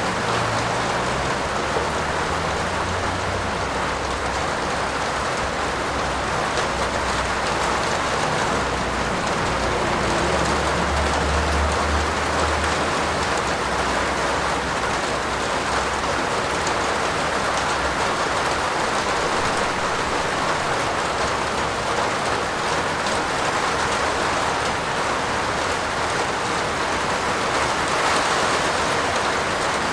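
Steady heavy rain falling in an even hiss of drops, with a low rumble underneath for roughly the first half that fades out.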